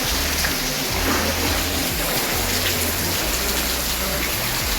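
Steady rush of water falling from above into the rock passage of Tukad Cepung Waterfall.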